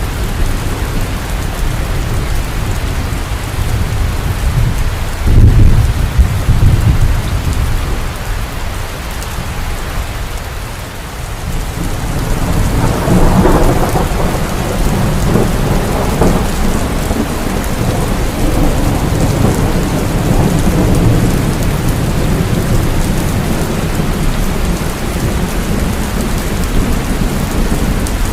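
Heavy rain falling steadily in a thunderstorm. A low thunder rumble swells about five seconds in, and a second peal starts about twelve seconds in, crackling at first and then rolling on under the rain.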